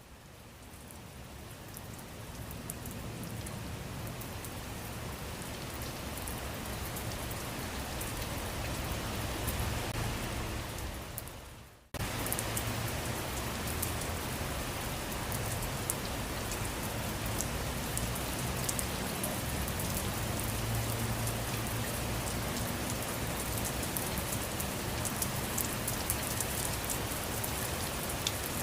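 Steady rain falling on a surface, with many small drops ticking. It fades in over the first few seconds, drops away briefly about twelve seconds in and comes straight back, then runs evenly.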